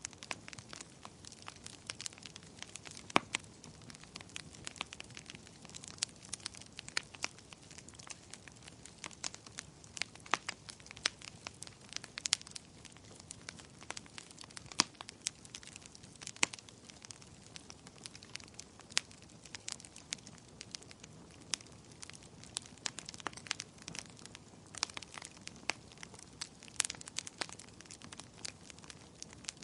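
Wood fire burning, with irregular sharp crackles and pops, several a second, over a low steady hiss.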